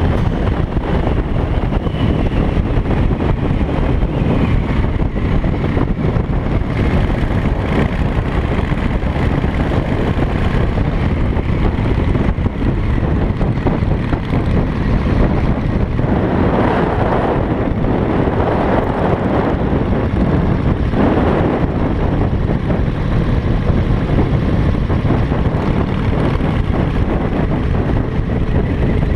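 A motorcycle riding at speed, its engine running under heavy wind rush on the microphone. The noise swells a little past the middle and then settles back.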